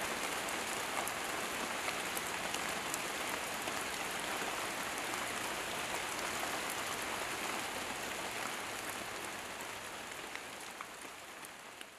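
Steady rain falling on leaves, a dense hiss scattered with small sharp drip ticks, growing fainter over the last few seconds.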